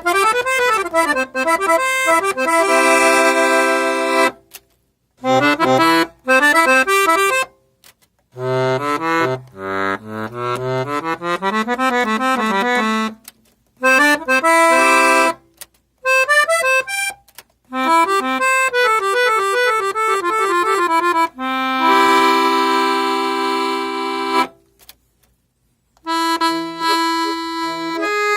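Parrot 80-bass piano accordion played solo, in short phrases of quick runs and held chords, each broken off by a brief silence, to demonstrate its sound.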